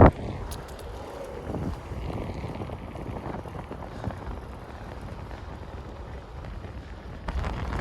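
Wind buffeting the microphone of a camera carried on a moving bicycle, with a low steady rumble, growing louder again near the end.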